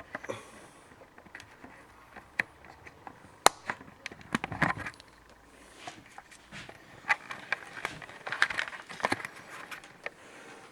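Handling noise from a computer case being worked on: a string of sharp clicks, light knocks and scraping or rustling. The sharpest click comes about three and a half seconds in, and there are busier spells of scraping around the middle and near the end.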